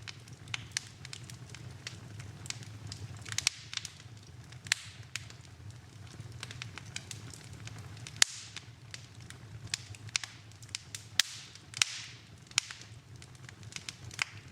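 Wood fire in a fireplace crackling, with sharp pops at irregular intervals, the loudest about eight seconds in and twice more near the twelve-second mark, over a low steady hum.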